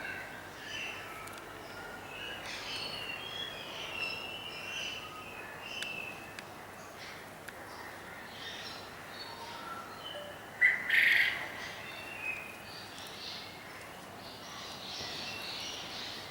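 Birds chirping and calling outdoors, many short overlapping chirps, with one louder short call just under eleven seconds in.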